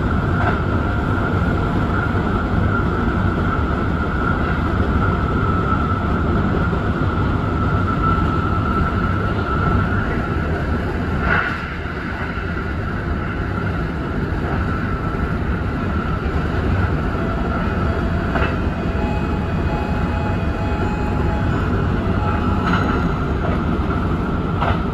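Kintetsu Urban Liner limited express train running at speed, heard from the driver's cab: a steady rumble of wheels on rail with a constant whine. A sharp click comes about eleven seconds in, after which the running noise is a little quieter.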